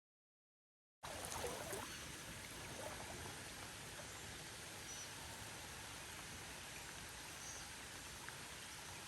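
Steady rain falling on a creek, mixed with the flow of the water, heard as an even hiss that starts abruptly about a second in.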